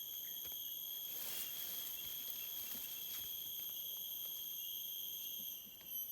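Steady, unbroken high-pitched insect drone holding one tone with overtones, with a few faint clicks and a brief rustle about a second in.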